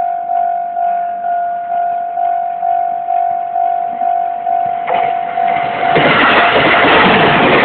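A level-crossing warning bell dings about twice a second. About five seconds in, a train passes close by and its loud wheel-on-rail rumble drowns the bell out. The train is 313-series electric multiple-unit cars being moved unpowered behind an EF66 electric locomotive.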